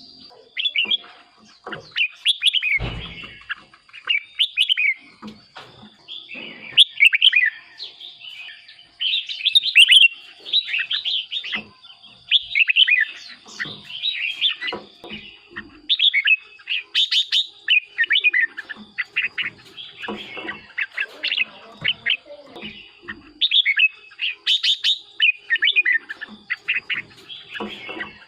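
Red-whiskered bulbul singing: quick, pitch-sweeping whistled phrases one after another with short pauses between them. There is a dull thump about three seconds in.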